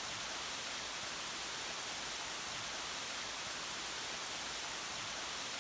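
Steady rushing of a waterfall, an even noise without breaks.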